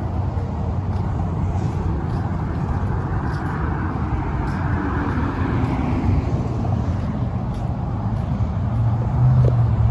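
Road traffic on the Florida Turnpike: steady tyre and engine noise, with a vehicle passing by about four to six seconds in and a louder low rumble near the end.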